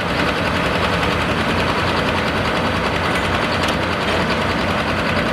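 Hot stock diesel pulling tractor running hard at full throttle under load, dragging the weight sled; a loud, steady, dense engine sound.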